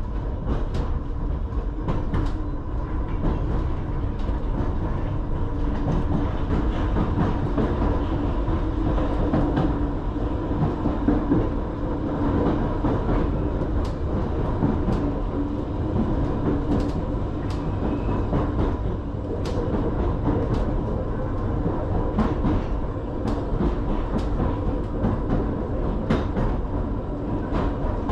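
Interior running noise of an Island Line Class 484 electric train (converted former London Underground D-stock) in motion: a steady rumble with a faint constant whine, broken by irregular sharp clicks of the wheels over rail joints.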